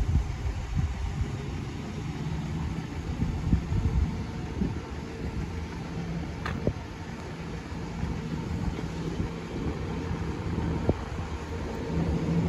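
Engine idling with a steady low hum, broken by a few faint knocks.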